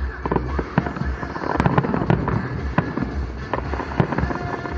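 Aerial fireworks shells bursting, many sharp bangs and crackles in quick succession, thickest about two seconds in.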